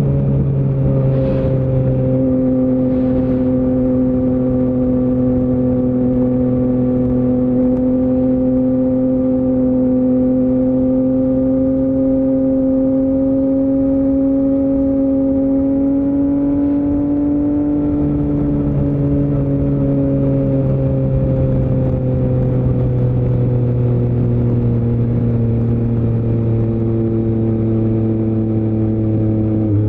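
Yamaha MT-09's CP3 890 cc inline-three engine, running through an Akrapovic full-system exhaust, held at a steady cruising throttle. Its pitch creeps slightly higher until about two-thirds of the way through, then eases slowly down.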